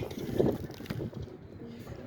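Wind buffeting the microphone, an uneven low rumble that rises and falls with the gusts.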